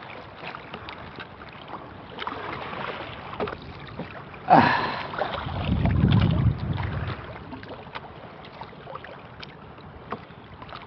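Small paddled fishing boat on choppy water in strong wind: scattered small knocks and water noises, a sudden loud noise about four and a half seconds in, then wind rumbling on the microphone for a second or two.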